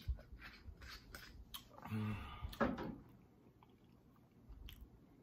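Close-miked eating sounds: small mouth clicks and smacks while chewing fried fish, with one louder, noisier mouth or handling sound about two seconds in.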